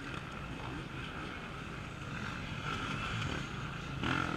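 Off-road racing motorcycle engines running faintly, with a steady low rumble of wind on the microphone.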